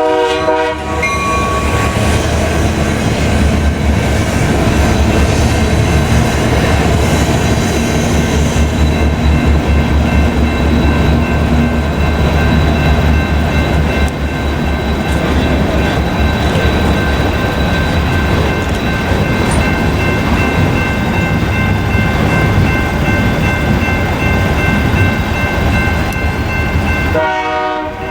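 Union Pacific local freight train with EMD SD70M diesel locomotives passing over a grade crossing. A horn blast ends about a second in, followed by steady diesel engine rumble and the noise of rail cars rolling past. Another horn blast starts near the end.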